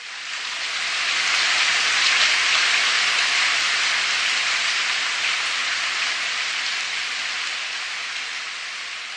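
Recorded rain sound effect: a steady hiss of rainfall that swells in over the first second or so and then slowly eases off.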